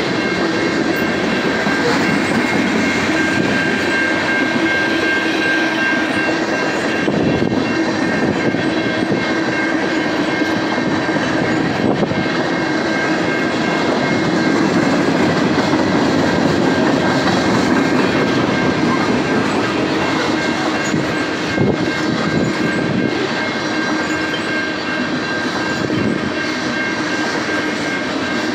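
Freight train of tank cars, covered hoppers and autorack cars rolling past: a steady rumble of wheels on rail, with a thin high steady tone running through it.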